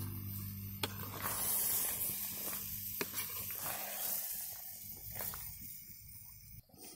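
Chicken pieces in masala sizzling in a large metal pan while being stirred, with a few sharp clicks of the metal spatula against the pan. The sizzle fades toward the end.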